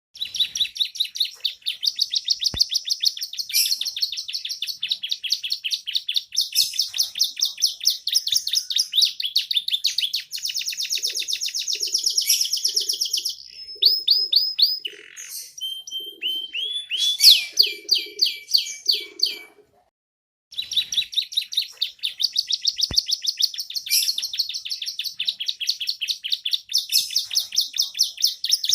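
Young canary singing a long, rapid trilling song, its repertoire filled with learned ciblek (bar-winged prinia) phrases. The song breaks into a different phrase about halfway through, stops briefly, then starts again.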